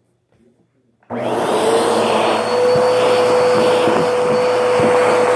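Vacuum cleaner switched on about a second in, its motor whine rising as it spins up and then running steadily at full speed.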